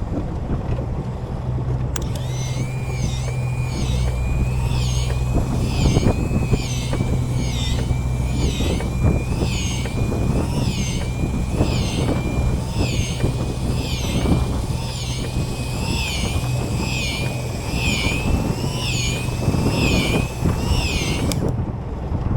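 Small boat's engine running steadily at idle. Over it, a repeating electronic-sounding chirp sounds about once a second, starting a couple of seconds in and stopping abruptly near the end.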